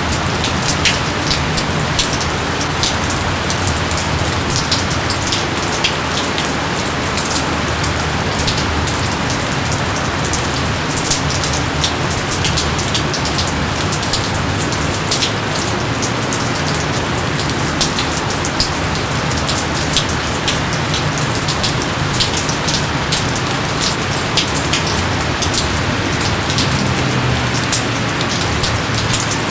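Steady heavy rain falling on foliage and ground, a dense even hiss with many sharp individual drop splashes throughout.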